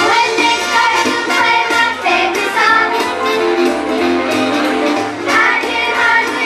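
Children's chorus singing a song over instrumental accompaniment with a steady beat.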